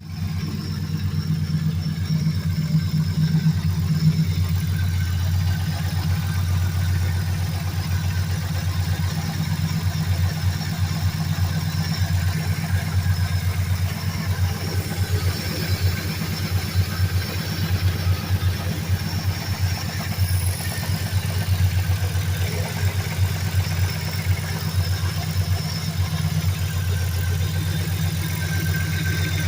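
Modified Ford 5.4-litre V8 in a 2003 Mercury Grand Marquis idling steadily through long-tube headers and a full exhaust. The owner says the engine has rod knock.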